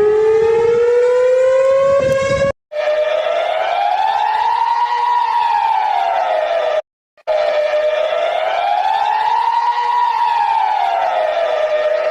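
Warning siren: a slowly rising tone that cuts off about two and a half seconds in, then a wail sweeping smoothly up and down, about once every five seconds, which breaks off briefly near the middle.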